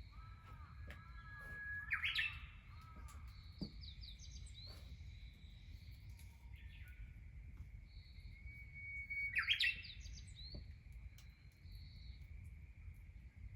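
Wild birds singing and calling: a quick series of repeated rising-and-falling notes at the start, then two louder bursts of song, one about two seconds in and one about nine and a half seconds in, over a faint steady high-pitched tone.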